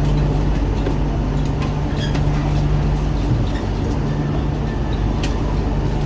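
Inside an MTR Island line Q-Train metro car: a steady low hum from the train with a few faint clicks and rattles.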